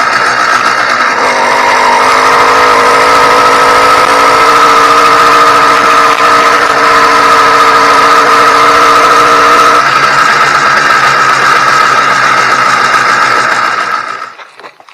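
New two-stroke YD100 motorized-bicycle engine running during its break-in, its pitch shifting about a second in and again near ten seconds, then dropping away near the end.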